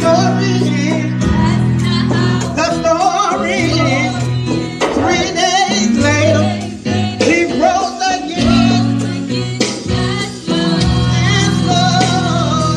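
Gospel worship music: singing over a live band with bass and guitar, with a steady beat.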